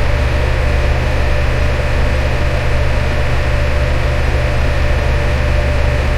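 Electric fan running steadily: an even rush of air over a deep low hum, with a faint steady tone in the middle.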